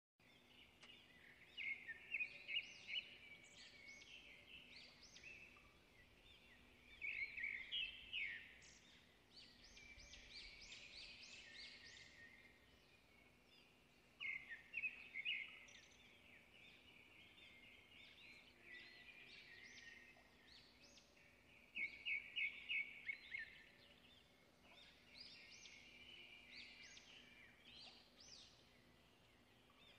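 A songbird singing in short phrases of quick, high chirps and trills, a phrase every several seconds, over a faint steady hum.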